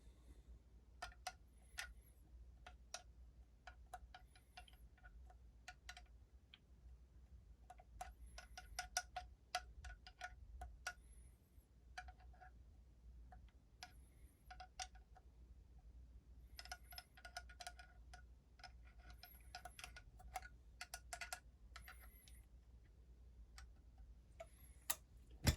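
Faint clinking and tapping of small metal engine parts and tools, in scattered clusters of light clicks that each ring briefly with a bright metallic tone.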